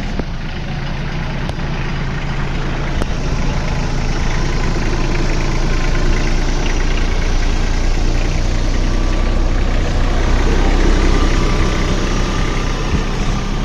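Captain 8G 283 mini tractor's three-cylinder diesel engine running steadily as the tractor is driven, getting a little louder over the first several seconds.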